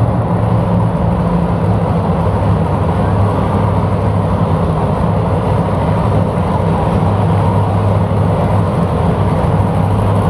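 Engine of a pulling vehicle running steadily, a low, even drone with no clear revving up or down.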